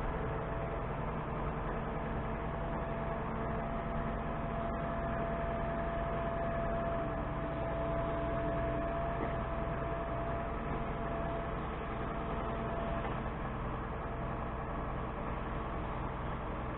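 Tractor engine running steadily at constant speed, a low even drone with a faint steady whine above it.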